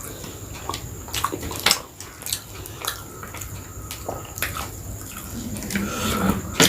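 A person eating chicken biryani: chewing and wet mouth sounds, a string of sharp irregular clicks, with the loudest one near the end.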